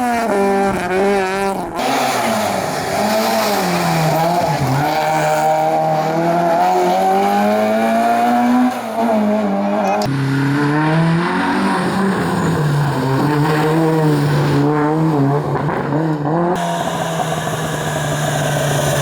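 Historic rally cars driven hard on a stage, engines revving up and dropping back over and over on gear changes and lifts, with some tyre squeal. The sound changes abruptly a few times, as shots of different cars are cut together.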